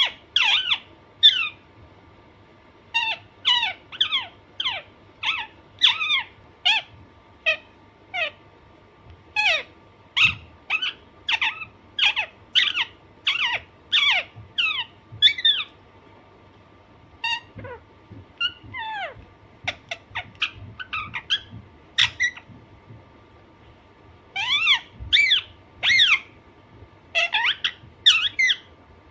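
Alexandrine parakeet calling: a run of short, shrill, falling squawks, two or three a second, in bouts broken by brief pauses.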